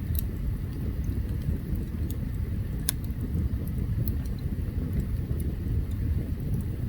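Open campfire burning: a steady low rumble with scattered crackles and sharp pops of burning wood, the loudest pop about three seconds in.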